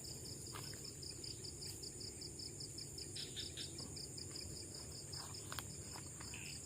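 Night insects calling: a steady high trill together with a pulsed chirp repeating about six times a second, with a few faint clicks.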